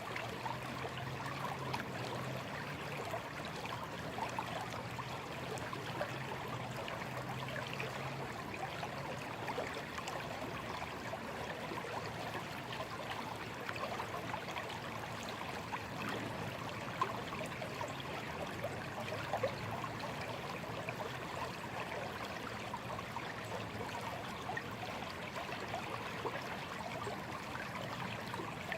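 A small stream babbling and trickling steadily over stones, a continuous fine splashing rush. A faint low hum sits under it for the first several seconds and then fades.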